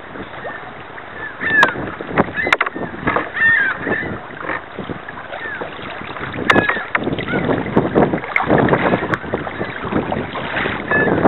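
Kayak paddle strokes splashing and dripping in the water, irregular and uneven, with short high chirps now and then over them.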